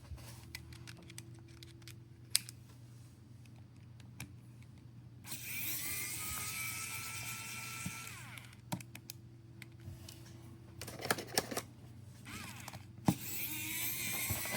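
A small power tool motor running in two bursts, one about five seconds in and one near the end, each with a hiss and a faint rising whine, between scattered small clicks and taps of handling.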